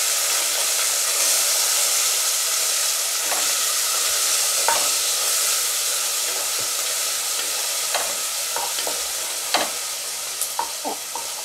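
Chopped onions, green chillies and curry leaves sizzling in hot oil in a pressure cooker while being stirred with a wooden spatula. Steady frying hiss, with a few sharp clicks now and then in the second half.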